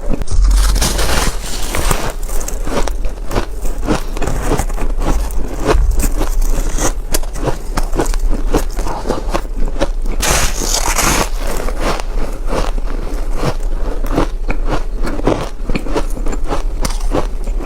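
Close-miked biting and chewing of ice chunks coated in powdered milk and matcha: a dense, continuous run of crisp cracks and crunches, with louder hissing crunches about half a second in and again around ten seconds in.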